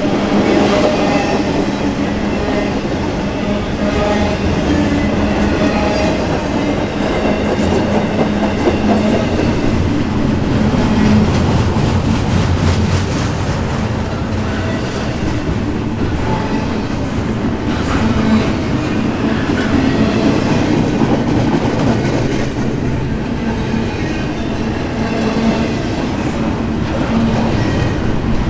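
Freight train of intermodal container cars rolling past at steady speed: a continuous rumble of steel wheels on rail with clickety-clack over the rail joints.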